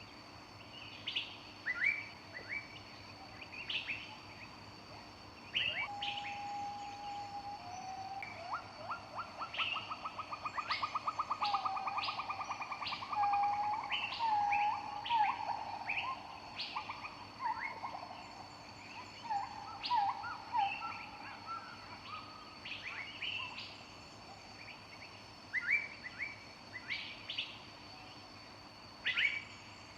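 Wild birds chirping, with short calls throughout. From about six seconds in until about twenty-two seconds, a lower, rapid trill and whistled notes join in. A steady high-pitched tone sits underneath.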